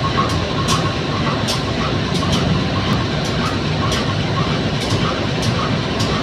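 A train at a station: a steady low rumble with scattered sharp clicks and knocks.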